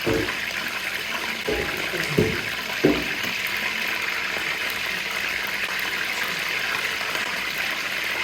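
Chicken tenders frying in hot oil, a steady sizzle throughout, with a few low knocks in the first three seconds.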